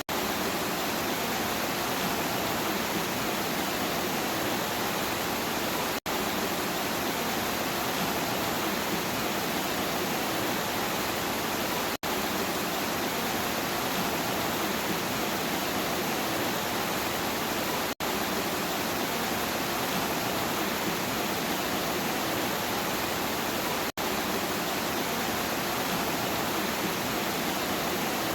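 Steady rain noise, a dense even hiss with no thunder, that cuts out for an instant about every six seconds, the seams of a short looped recording.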